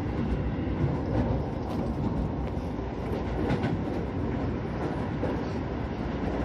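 Keio 9000 series commuter train running, heard from inside the car: a steady rumble of wheels on rail with a few faint clicks over the track.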